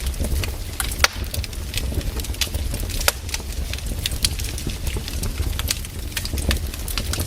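Firewood logs burning, with irregular sharp crackles and pops over a low, steady rumble.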